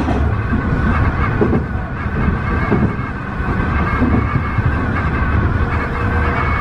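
Tobu 50090 series electric train running at speed: a steady low rumble from the wheels and track, with a wavering high-pitched squeal over it.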